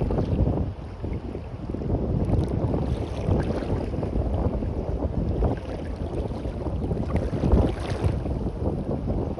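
Wind gusting against the microphone over the wash of waves on a beach, a low rumbling noise that swells now and then.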